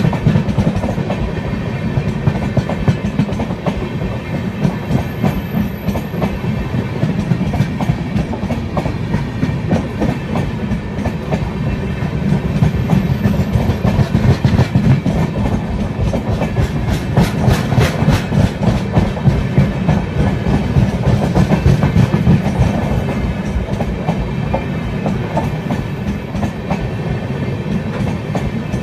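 Indian Railways passenger coaches passing close by, steel wheels clattering rhythmically over the rail joints above a continuous heavy rumble. The clatter grows busier and louder around the middle.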